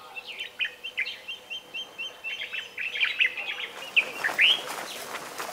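Birds chirping: a quick run of short, high repeated chirps, then a couple of rising calls about four seconds in.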